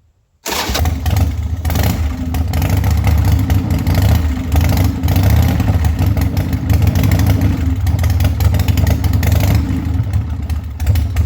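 Harley-Davidson Sportster 1200's V-twin engine running loudly and unevenly on its first run after a rebuild. It comes in abruptly about half a second in, with a choppy, irregular beat and small rises and falls in speed.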